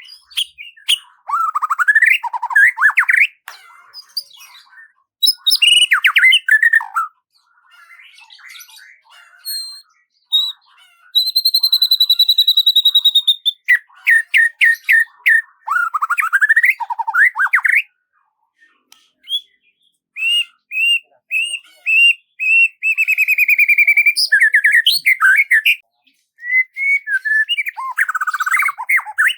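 Songbird singing in separate varied phrases: fast chirps and trills, downward-sweeping notes, a long held whistle about eleven seconds in, and a quick run of repeated notes after twenty seconds.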